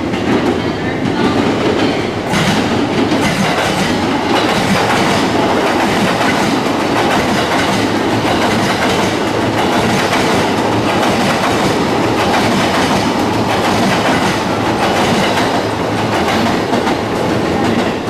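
Electric commuter train running along the rails, a steady loud rumble with wheels clicking over the rail joints throughout.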